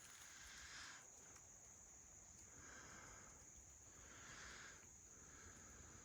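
Near silence in woodland, with a faint steady high-pitched insect chorus such as crickets running throughout.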